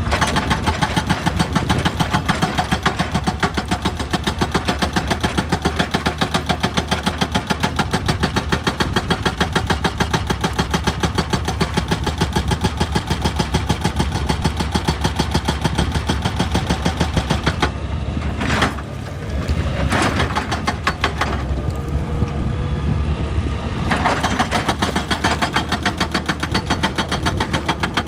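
Excavator-mounted hydraulic rock breaker hammering rock in rapid, even blows over the machine's diesel engine. It pauses between about 18 and 24 seconds in, leaving the engine with a few single knocks, then starts hammering again.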